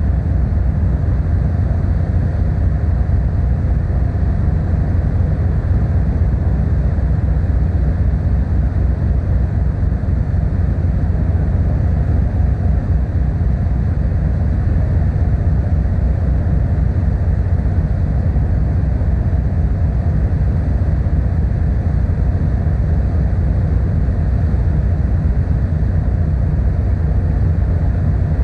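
Steady low rumble of the car ferry Kuniga under way, its engines running at an even pace with a faint hiss of wind and water over it.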